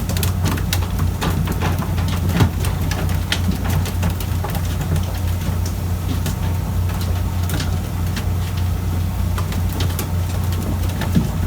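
A fishing boat's diesel engine running steadily with a low drone, with scattered sharp clicks and knocks over it.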